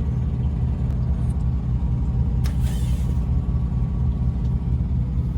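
Semi truck's diesel engine idling with a steady low, pulsing rumble. About two and a half seconds in comes a short burst of hiss.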